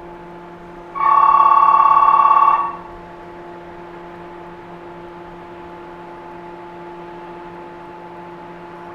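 An electric bell rings loudly for about a second and a half, over the steady electrical hum inside a 113 series electric train car.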